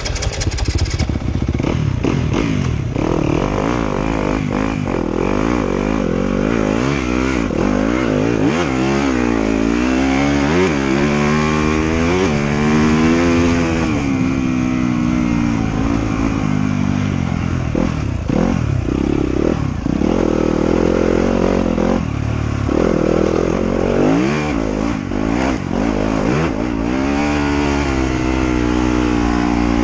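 Trail motorcycle engine running under way, its revs climbing and dropping again and again through the gears, with some clattering.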